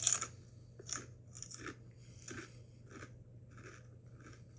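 Biting into a Doritos Golden Sriracha tortilla chip and chewing it: one loud crunch at the start, then steady crunchy chewing that grows softer.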